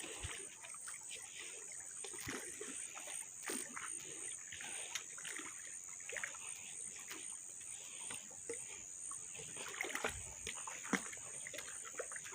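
Water in a flooded stream splashing and trickling in short, irregular bursts, over a steady high-pitched whine.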